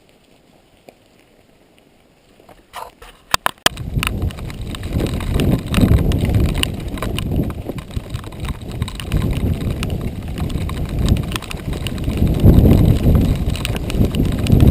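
A few sharp clicks, then a Giant XTC 3 mountain bike rolling along a dirt trail: loud, uneven tyre rumble with rattling over the rough ground and wind on the microphone.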